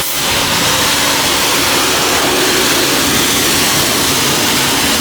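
Self-serve car wash high-pressure rinse wand spraying water in a loud, steady hiss, with a faint steady hum underneath.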